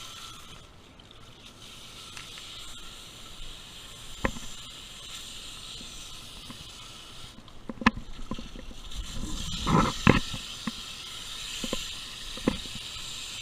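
Garden hose spraying water at full blast onto an air conditioner's outdoor condenser unit: a steady hiss of spray, broken by a few sharp knocks and a louder splashing patch about ten seconds in.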